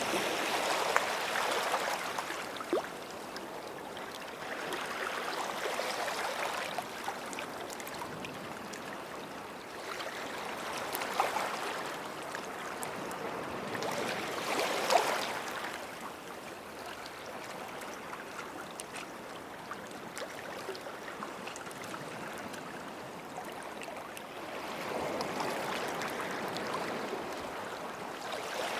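Small sea waves washing up onto a sandy shore and draining back, rising and falling in about five swells with a fine crackle of foam.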